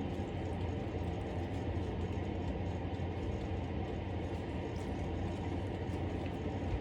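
Steady low mechanical hum with a faint hiss above it, even throughout, with no distinct knocks or clicks.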